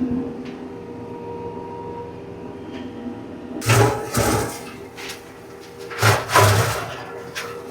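Compact tractor's diesel engine and flail mower running steadily, heard from inside the cab, with two loud crashing bursts about halfway through and again near the end as the flails chew into thick brush.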